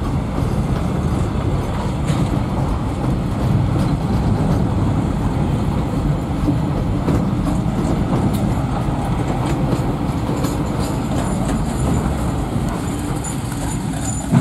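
A train running past on the rails, making a loud, steady rumble.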